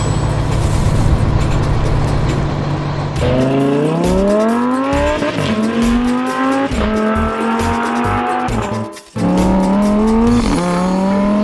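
Race car engine sound effect, running low and steady, then from about three seconds in revving up in rising pitch and shifting up through the gears, with several drops in pitch. It cuts out briefly near nine seconds, then revs and shifts again.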